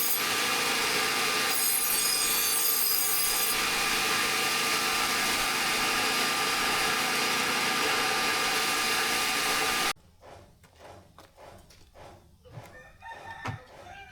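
A power grinder runs steadily on the steel of an old saw blade with a high whine, then stops suddenly about ten seconds in. After it stops come quieter, quick, evenly spaced scraping strokes.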